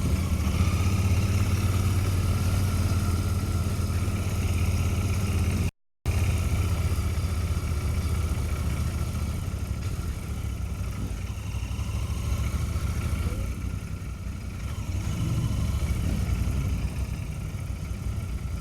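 Royal Enfield Continental GT650's 648 cc parallel-twin engine running steadily at low revs, with small rises and falls in the engine note. The sound cuts out completely for a moment about six seconds in.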